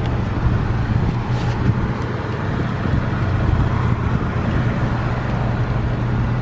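Parked car's engine idling, a steady low hum.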